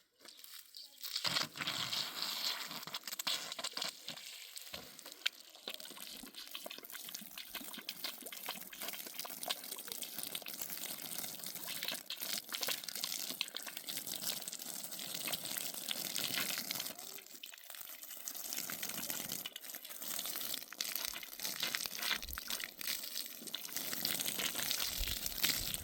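Water running and splashing, starting about a second in and going on steadily.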